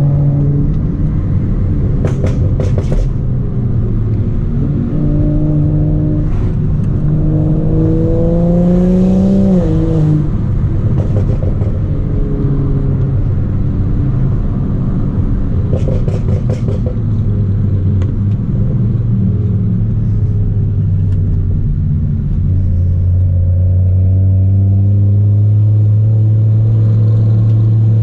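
Straight-piped BMW 335i's N55 turbocharged straight-six under hard acceleration: revs climb and drop sharply on an upshift about nine and a half seconds in, hold fairly steady through the middle, then climb again near the end. A few short crackles cut through twice.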